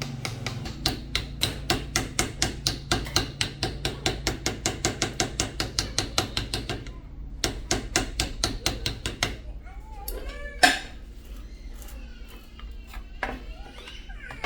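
Quick, evenly spaced taps, about four a second, in two runs with a short pause between, followed by a single louder knock.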